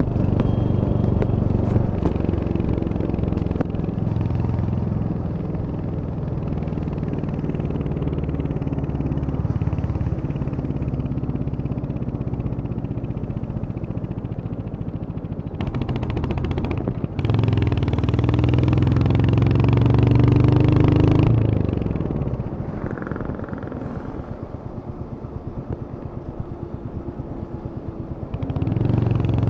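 Royal Enfield Hunter 350's single-cylinder engine running under way, pulling with rising pitch, then easing off and dropping to a slow, even putter for several seconds before opening up again near the end.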